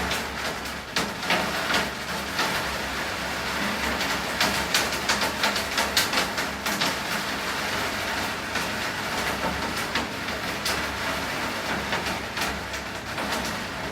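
Rain falling steadily, with many sharp drops tapping irregularly on hard surfaces, densest about four to seven seconds in.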